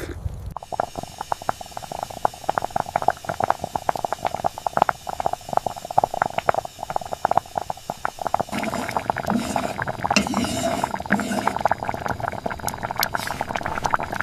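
Food cooking in a pan or pot: rapid, irregular crackling and bubbling pops, growing denser and fuller about eight seconds in.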